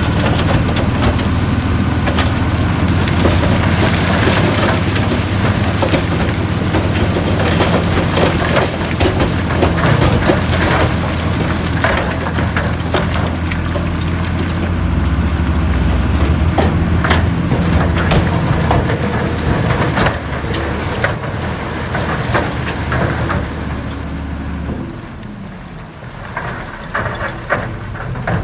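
Heavy diesel earthmoving machinery running hard, with frequent clanks and rattles of metal and dirt. The engine note shifts about halfway through and falls away near the end.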